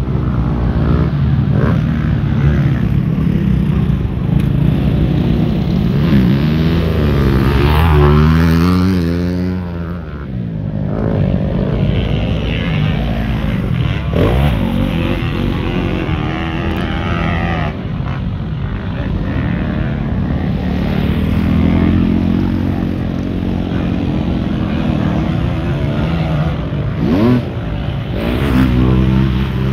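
Motocross bike engines running and revving, their pitch rising and falling repeatedly as the throttle is opened and closed.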